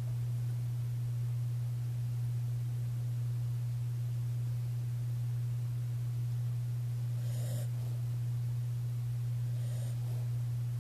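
A steady low hum, with a sleeping pit bull–red heeler mix dog's faint snoring breaths about seven and a half seconds in and again near ten seconds.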